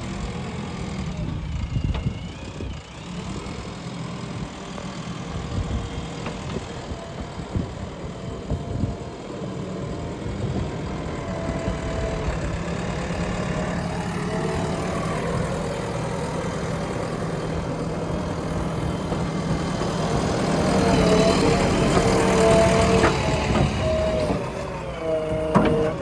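Backhoe loader's diesel engine running steadily, with some higher steady tones over it, growing louder for a few seconds about three quarters of the way in as it works under load.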